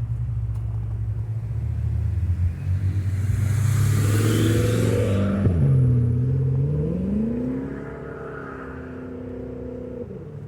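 A motor vehicle driving past with its engine accelerating and tyre hiss, loudest about halfway through. Near the loudest point the engine pitch drops, then climbs again as the vehicle pulls away.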